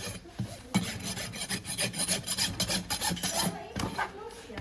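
Farrier's rasp filing a horse's hoof in quick repeated strokes.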